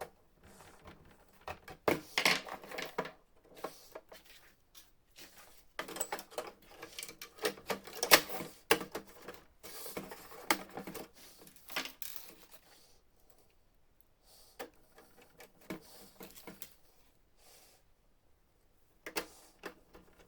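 Plastic and metal parts of a laser printer clicking, knocking and rattling as they are handled and fitted back together, in irregular clusters with short pauses between.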